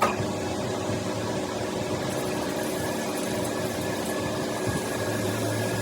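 Steady mechanical hum and noise from a running machine, with a faint high whine coming in about two seconds in.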